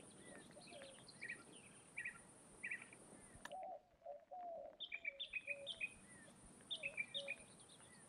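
Several wild birds chirping faintly, with short high twittering notes and a run of lower, softer calls. There is a click about three and a half seconds in.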